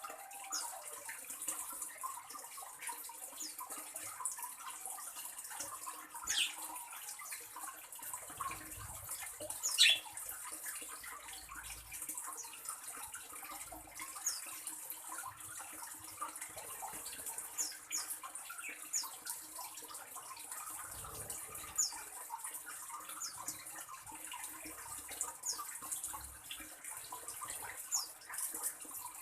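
A small bird's short, high, downward chirps, repeated every second or two, with a couple of sharper calls about six and ten seconds in, over a steady high hiss.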